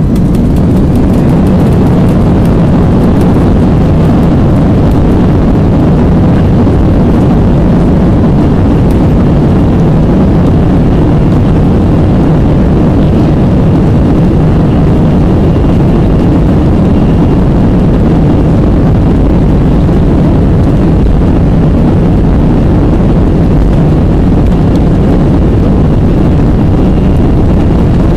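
Airbus A320 jet engines at takeoff power: a loud, steady roar, heaviest in the low end, unbroken throughout.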